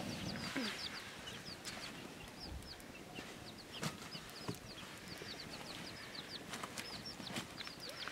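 Many short, high bird chirps repeating throughout, with a few scattered sharp clicks and knocks.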